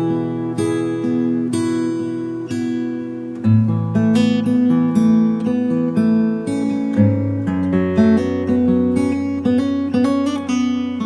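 Acoustic guitar music: gentle plucked notes over held bass notes, the bass shifting to a lower note about three and a half seconds in and again near the seven-second mark.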